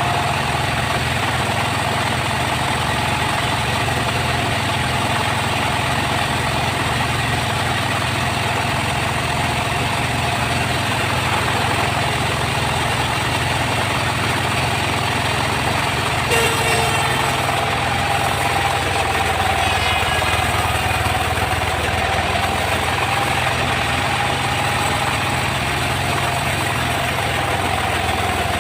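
Engine-driven sawmill machinery running with a steady drone. A brief knock comes about sixteen seconds in, after which a higher tone wavers slightly.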